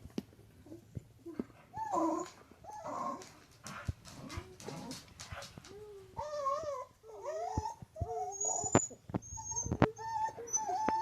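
A dog "talking": a run of whining, moaning vocalisations that wobble up and down in pitch, coming closer together in the second half.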